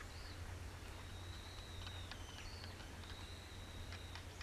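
A bird calling: thin high whistled notes, some short and arched and two long level ones of about a second each, over a steady low rumble with a few faint clicks.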